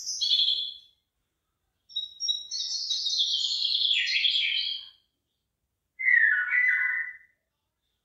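A songbird singing three separate phrases of high, quick notes: a short one at the start, a long phrase falling in pitch from about two to five seconds in, and a lower, shorter one near the end.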